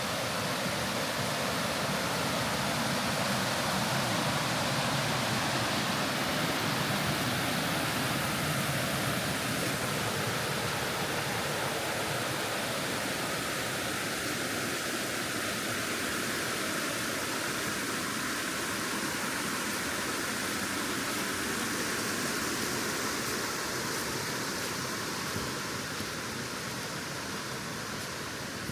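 Forest stream rushing steadily over rocks, a continuous even water noise that eases off slightly near the end.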